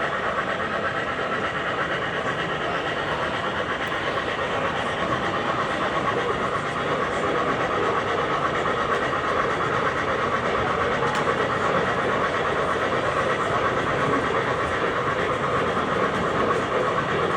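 Model trains running along their tracks: a steady whirring noise.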